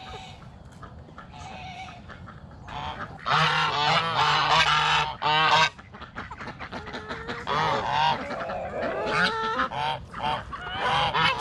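Several geese honking together: a loud burst of overlapping honks a few seconds in, then scattered, quieter honks.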